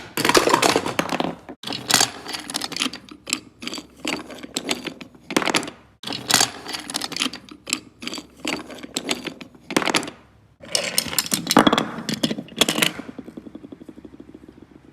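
Toy trains and pieces crashing and clattering together in a long run of sharp, irregular knocks. Near the end it settles into a fast rattle that dies away as a piece wobbles to rest.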